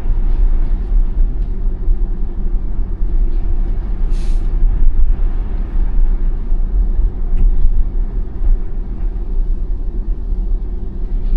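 Steady low rumble of tyre and road noise inside the cabin of an electric 2021 Tesla Model Y driving on a snowy road, with a brief hiss about four seconds in.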